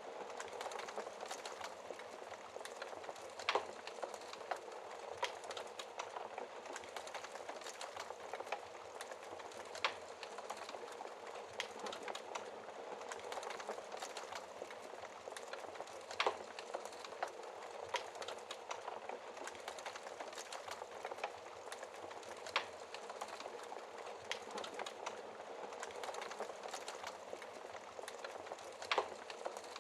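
Wood fire burning in a fireplace: a steady hiss of burning logs with constant small crackles and a sharp louder pop about every six seconds.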